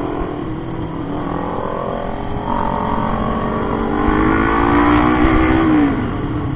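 Motorcycle engine pulling uphill under throttle, its pitch rising steadily for a few seconds and getting louder, then dropping off near the end as the rider shifts or eases off, with road and wind noise.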